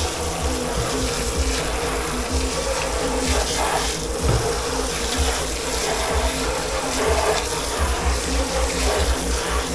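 Water running steadily from a tap into a dish-pit sink.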